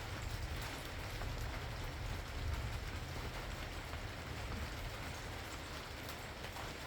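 Steady rain falling: an even hiss of drops with scattered sharp drip clicks, over a steady low rumble.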